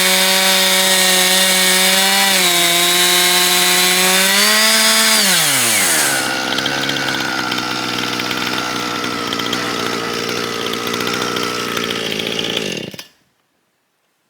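Two-stroke chainsaw on an Alaskan chainsaw mill running at full throttle. About five seconds in, the throttle is let off and the engine drops to idle. It idles for several seconds and stops abruptly about a second before the end.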